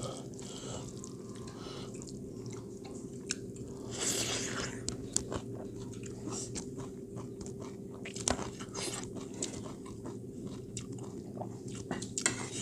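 Close-up eating sounds: chewing and biting, with frequent small wet mouth clicks and crunches. A steady low hum runs underneath.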